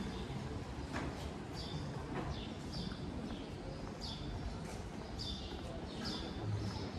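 A small bird calling repeatedly in short falling chirps, about one a second, over steady street background noise, with footsteps on stone paving.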